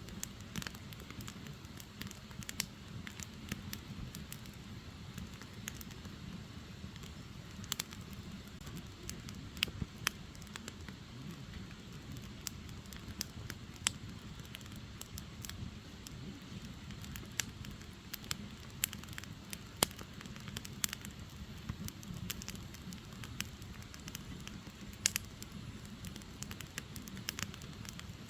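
Firewood burning: a steady low rumble of flame with frequent sharp crackles and pops at irregular intervals.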